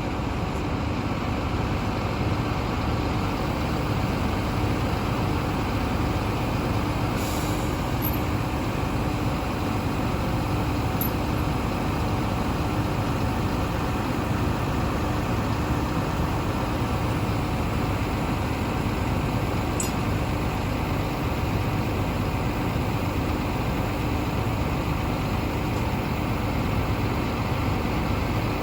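A heavy vehicle engine running steadily with an even hum, with a few faint clicks over it.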